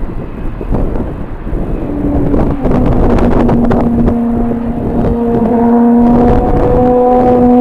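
Strong gusty wind buffeting the microphone. About two seconds in, a low steady hum with overtones joins it, dipping a little in pitch and rising again near the end.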